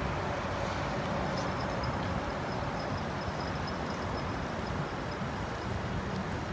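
Airbus A321 airliner's jet engines giving a steady, even roar as it flies over.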